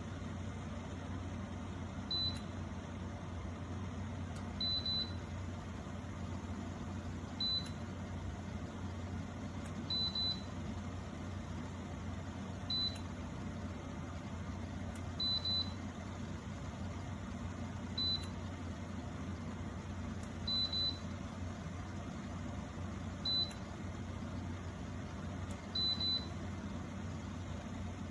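Electric kettle's control panel giving a short high beep about every two and a half seconds, a repeating alert, over a steady low hum.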